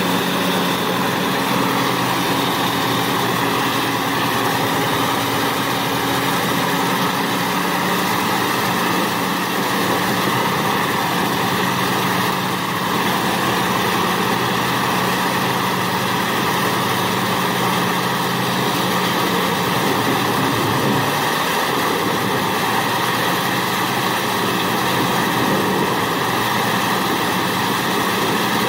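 Industrial wood grinder running: a steady, loud drone of its heavy engine mixed with the noise of the grinding machinery. The low engine note dips briefly about two-thirds of the way through.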